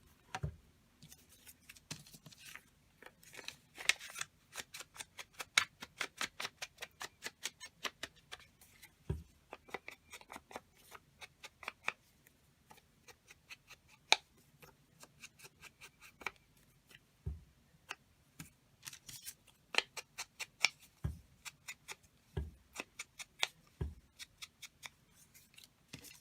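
Scissors snipping through paper, a long run of quick short cuts, with a few soft thuds of things set down on the work table.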